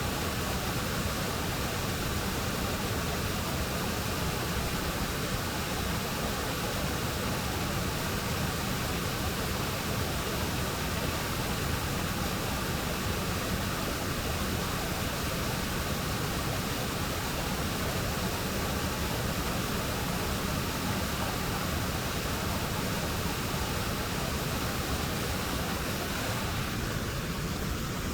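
Steady rush of the Serpis River's flowing water, an even noise that thins slightly near the end.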